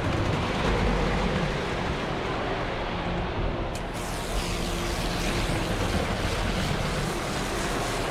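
Concrete mixer truck's diesel engine running steadily with a rushing noise, turning brighter and hissier after a click about four seconds in.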